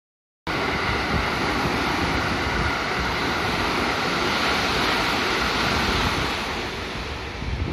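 Electric passenger train passing through the station at speed: a steady rush of wheel and air noise that starts abruptly about half a second in and eases off near the end as the last car goes by.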